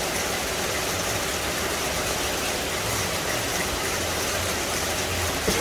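Steady rain falling in a forest, an even hiss with a low rumble underneath, and a single short knock near the end.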